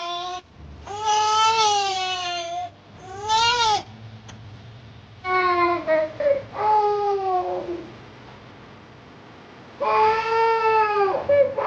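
A baby crying in a run of drawn-out wails, each rising and then falling away, with short pauses between them and a longer lull before the last two cries.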